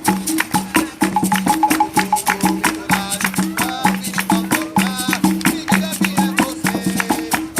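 Capoeira roda music: a berimbau repeats a two-note pattern over rattling, tapping percussion, with voices singing briefly in a couple of places.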